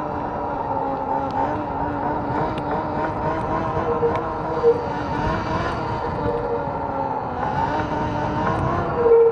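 Electric bike riding along: a steady motor whine whose pitch wavers slightly, over wind and tyre noise. Two brief louder squeaks come about halfway through and near the end.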